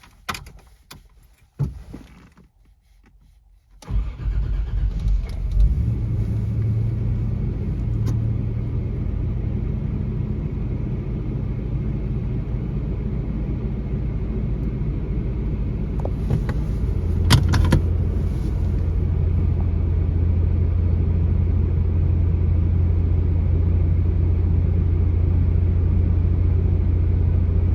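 1989 Toyota 4Runner's 3.0-litre V6 starting from cold: a few clicks, then the engine fires about four seconds in and settles into a steady idle. A little past halfway there are a few more clicks, and the idle note deepens.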